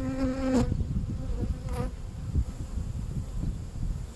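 Honeybees buzzing around an open hive, one bee passing close with a steady hum that breaks off about half a second in and another brief buzz near the middle, over a low rumble.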